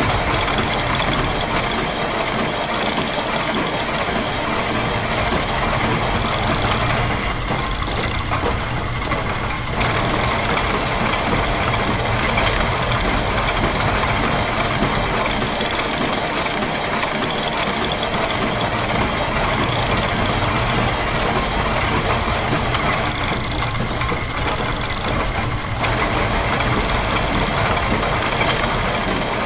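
Layered loops of machine sounds (ratcheting, gear clatter, press and sewing-machine rhythms) running together in a dense steady clatter. The higher, hissing layer drops out twice, for about three seconds each time, about seven seconds in and again near the end.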